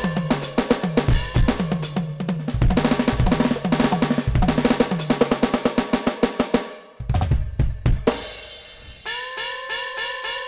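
NUX DM8 electronic drum kit played through its sound module: a busy pattern of kick, snare and pitched tom hits that stops about seven seconds in, followed by a cymbal wash and a run of lighter, pitched hits.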